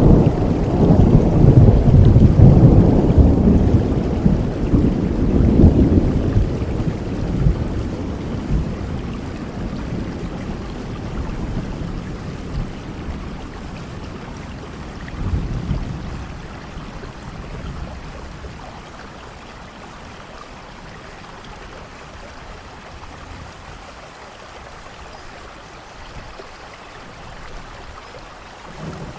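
Steady rain with a long thunder rumble, loudest in the first few seconds, that slowly rolls away. A smaller rumble comes about halfway through, then the rain carries on more quietly.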